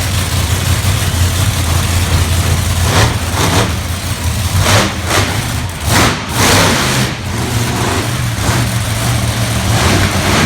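Monster truck engine running loud with a steady low drone, revved hard in several short bursts around the middle.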